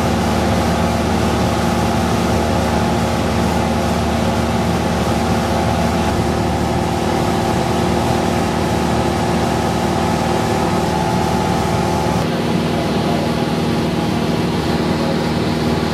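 Cessna 172's piston engine and propeller droning steadily, heard inside the cockpit, with a slight shift in tone about six seconds in and again about twelve seconds in.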